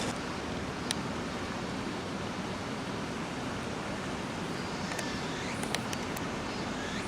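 Steady rushing outdoor background noise, with a few faint sharp clicks about a second in and again around five to six seconds in.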